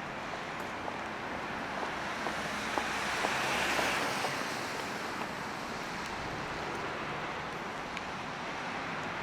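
Steady hiss of a rain-wet city street, swelling about three to four seconds in as a vehicle's tyres pass on the wet road.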